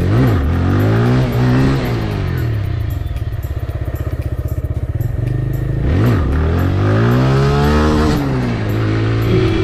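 KTM 250 Duke motorcycle's single-cylinder engine under way. Its pitch rises and falls with the throttle, dipping sharply and climbing again near the start and about six seconds in.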